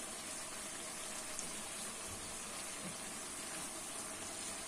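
Duck meat, onion and carrot sticks frying in a kazan, with a steady, even sizzle.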